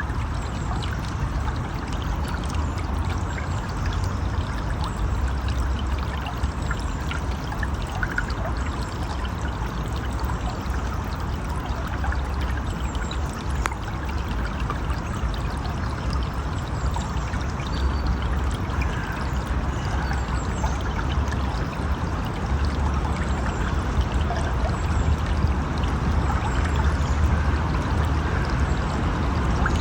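River water flowing steadily, a continuous rush of water with a deep low rumble.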